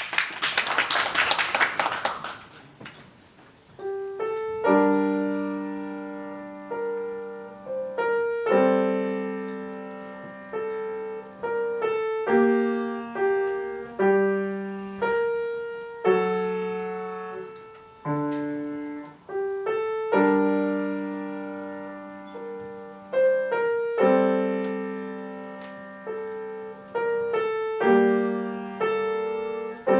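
A short burst of clapping, then about four seconds in a young pianist begins a slow, simple piece on the piano, with struck notes and chords that fade between phrases.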